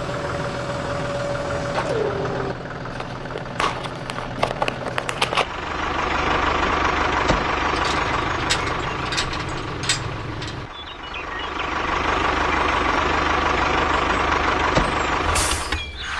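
Small electric motors of DIY miniature tractors and construction machines whirring steadily. One motor's whine stops about two seconds in. A scatter of sharp clicks and knocks follows, then a louder steady whirr that dips briefly about eleven seconds in and resumes.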